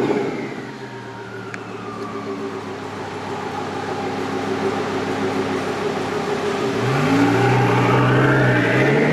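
Twin-turbo Lamborghini engine running under light load with a high whine falling away in the first couple of seconds, then, about seven seconds in, revving up with steadily rising pitch as the car accelerates.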